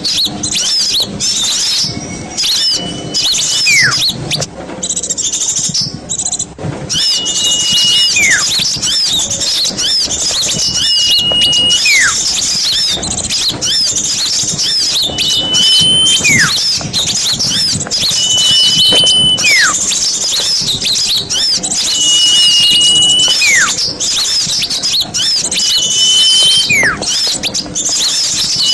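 Bird-luring recording of many small songbirds chirping densely and continuously. About every four seconds a clear whistled note is held steady for under a second, then drops steeply in pitch.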